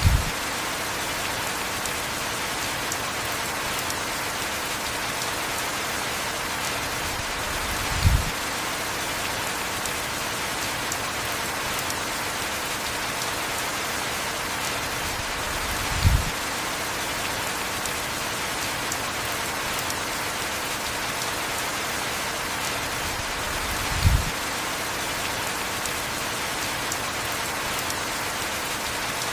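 Heavy rain falling steadily on surfaces, an even hiss. A short low thump cuts through four times, about every eight seconds.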